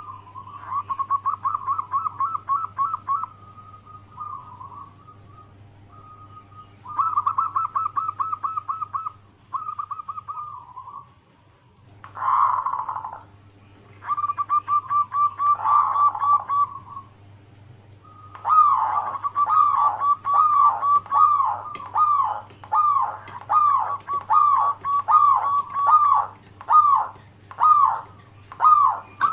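Zebra dove (perkutut) cooing in short phrases of rapid, rattling notes, broken by pauses; in the second half it runs into a long series of quick, evenly repeated notes that each slide downward.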